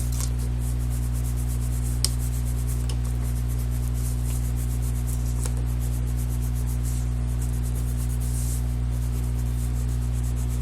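Wax crayon scratching on paper in quick short strokes, drawing thin and thick lines. A steady low electrical hum runs underneath, and there is one small sharp tap about two seconds in.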